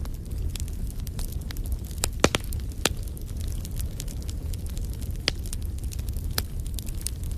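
Fireplace fire crackling: a steady low rumble under scattered sharp pops, the loudest a quick pair about two seconds in.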